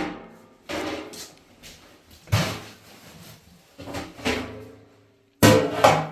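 A series of heavy knocks or thuds, irregularly spaced about a second or more apart, each with a brief ringing tail. The two loudest come close together near the end.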